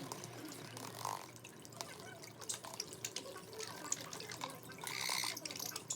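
Java sparrows splashing in a water bath, a quick patter of small splashes and drips as they flick water with their wings, sped up to double speed. A louder, brighter splash or flutter comes about five seconds in.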